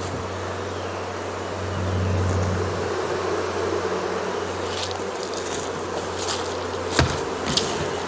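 Honey bee swarm buzzing: a dense, steady hum from a great many bees, swelling briefly about two seconds in. A couple of sharp clicks near the end.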